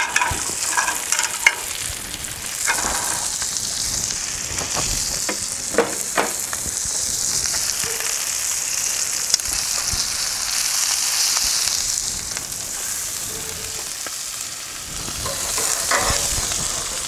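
Smashburger patties in bacon fat and buttered buns sizzling steadily on a hot Blackstone flat-top griddle, with a few short taps here and there.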